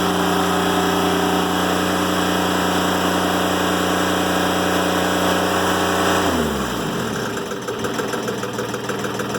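Timberking 1400 sawmill engine running at high speed, then throttled down about six seconds in, its pitch falling to a steady idle as a cut is finished.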